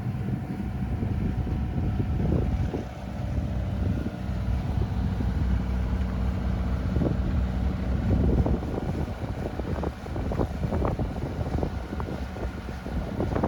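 Sailboat under way with its engine running in a steady low drone, and wind buffeting the microphone in irregular gusts.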